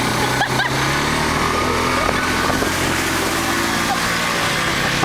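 Motorcycle engine running at a steady pitch under a steady rushing noise, with faint voices in the background.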